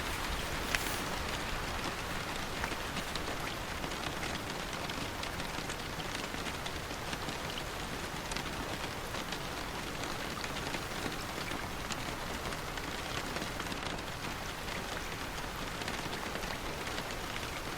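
Steady rain falling on a hard surface, a dense, even hiss of many separate drops with a single sharper tick about a second in.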